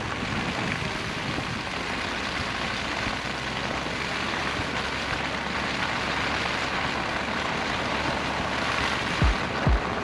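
Steady road and engine noise of a vehicle driving, an even rushing hiss over a low rumble, with a couple of short low thumps near the end.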